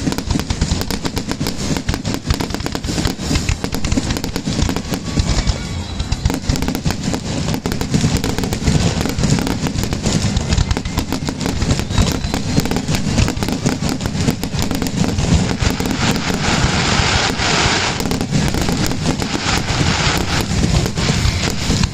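Fireworks going off in a rapid, unbroken barrage of bangs and crackling, densest about two-thirds of the way through, with music playing underneath.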